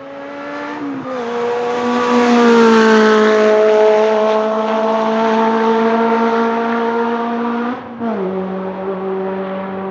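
Racing car engine at high, steady revs, swelling in volume as the car passes, its pitch stepping down about a second in and again near the end.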